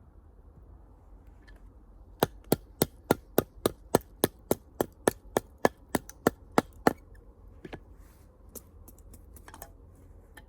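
Rapid, even chopping strikes on firewood, about seventeen sharp blows at roughly three a second, followed by a few fainter knocks.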